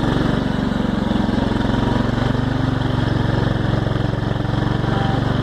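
Tractor engine running steadily at an even speed, with a fast, even firing beat.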